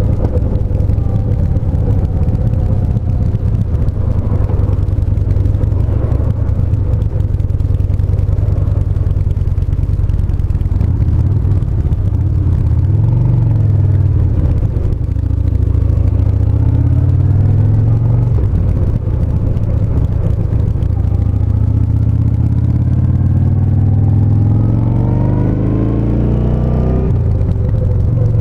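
Yamaha SCR950's air-cooled V-twin engine running under way, its revs rising and falling several times, with a long climb in pitch near the end that drops off sharply.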